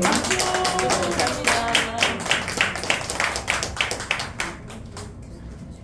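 A roomful of people clapping their hands, a dense burst of applause that thins out and dies away near the end.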